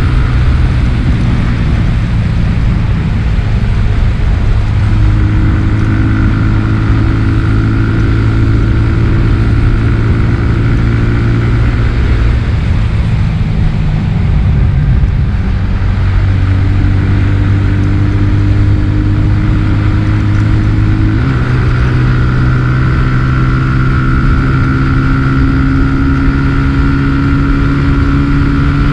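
My150 150 cc scooter engine running while riding, picked up by a GoPro Hero 7 Black fitted with a foam windscreen, with low wind rumble on the mic. The engine note dips about halfway through and rises again a little past two-thirds of the way.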